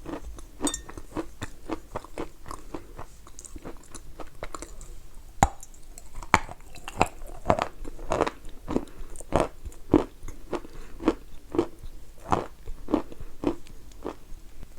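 Chalk being bitten and chewed with a crunch, about two chews a second, with two sharper, louder bites about five and six seconds in.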